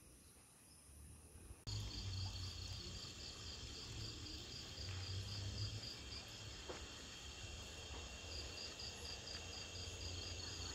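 Insects chirring steadily at a high pitch, with a pulsed chirp repeating several times a second, over a low rumble. It comes in suddenly about two seconds in after a quieter stretch.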